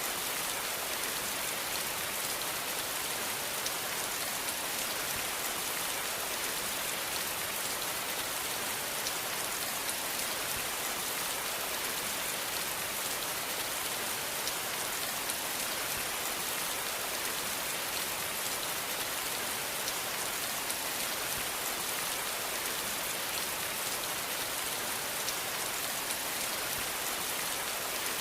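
Steady, even rain falling on a surface, with scattered individual drop ticks.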